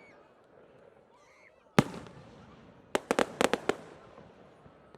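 Fireworks going off: one sharp bang about two seconds in, then a quick run of several bangs about a second later, each followed by a short echo.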